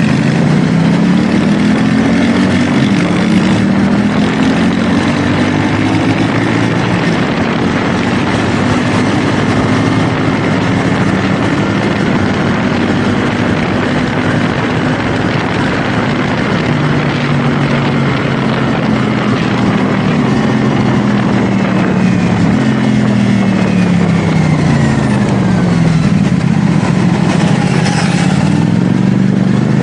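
CFMoto 450SR S parallel-twin engine under way, its pitch rising and falling repeatedly as the throttle opens and closes and it shifts through the gears, over steady wind and road noise.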